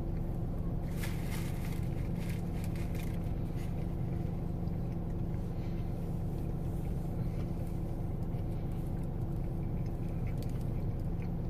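Steady low hum of a car's idling engine heard from inside the cabin, with soft chewing sounds in the first few seconds.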